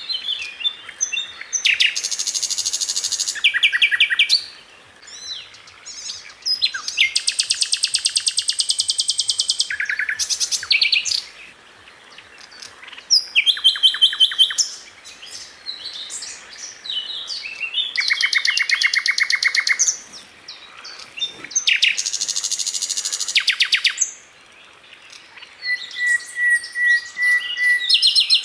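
Sikatan londo flycatcher singing in long bursts of very fast, tightly packed repeated notes, high-pitched rattling trills a few seconds long separated by short pauses and twittering, with one thin level whistle near the end.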